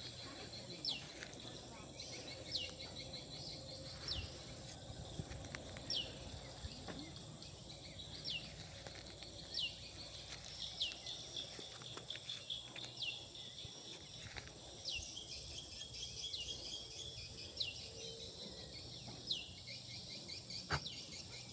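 A bird repeating a short downward-slurred whistle about every one and a half to two seconds, over a steady chorus of buzzing insects, with a few faint clicks.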